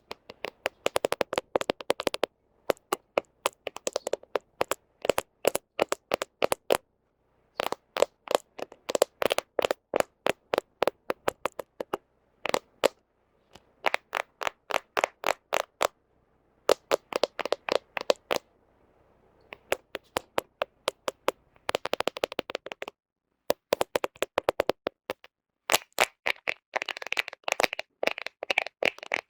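Fingernails tapping and scratching on a smartphone camera, close to the microphone: rapid runs of sharp clicks in bursts of a second or two, broken by short pauses.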